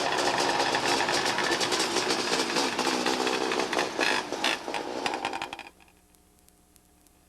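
Small race-car engines running with a fast, buzzy rattle. The sound cuts off abruptly a little after five seconds, leaving a faint steady hum.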